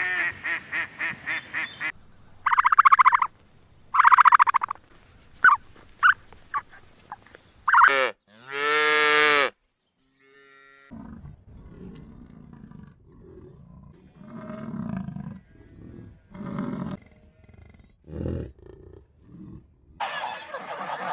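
Farm animal calls in a sequence of short clips. First comes a quick run of repeated calls, then several loud high-pitched calls, then low calls over about the last nine seconds.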